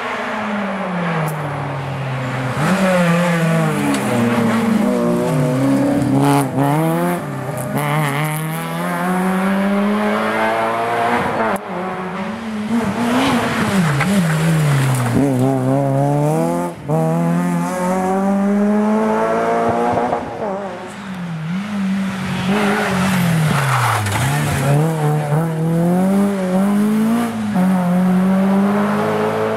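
Rally car engine revving hard through the gears along a tarmac stage, its pitch climbing and dropping again and again as it shifts and lifts.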